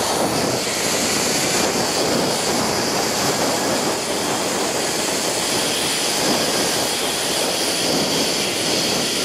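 Zip-line trolley running fast along the steel cable: a steady, loud whirring rush of the pulleys mixed with wind rushing past.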